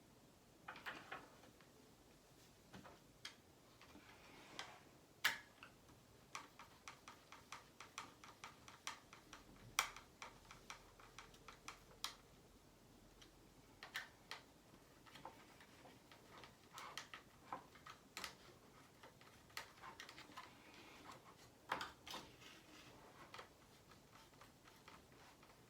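Faint, irregular clicks and taps of small tools and parts being handled while an engine is fitted into a radio-control helicopter, some coming in quick runs.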